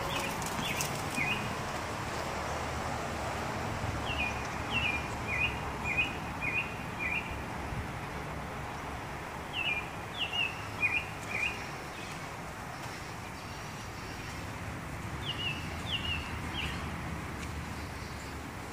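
A songbird singing phrases of short down-slurred chirps in several bursts a few seconds apart, over a steady outdoor background noise.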